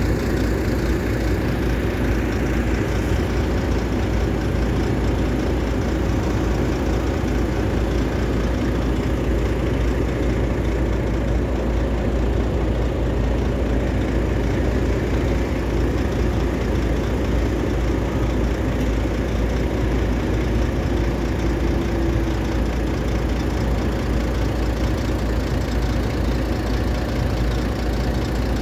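Heavy diesel engine of an excavator or truck running steadily at a constant speed, with no revving or changes.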